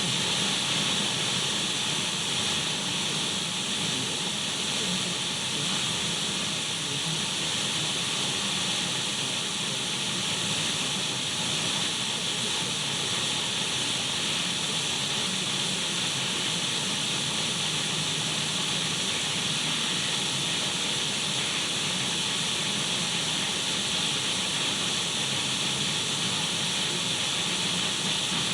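Radio static: a steady, even hiss of an untuned radio, with no change throughout.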